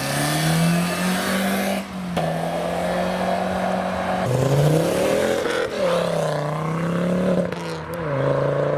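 Car engine revving as it drives off. Its note holds, drops about two seconds in, then climbs again and rises and falls a few times with the revs.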